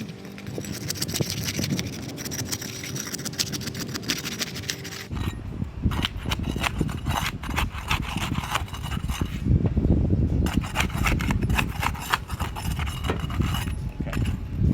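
A pry bar scraping and rubbing under asphalt roof shingles in short, irregular strokes, working them loose. A low rumble joins in about five seconds in.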